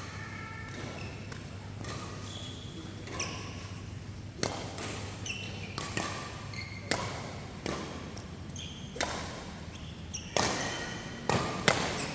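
Badminton rackets striking a shuttlecock in a rally, sharp hits about a second apart starting about four seconds in, over a steady low hum in a large hall.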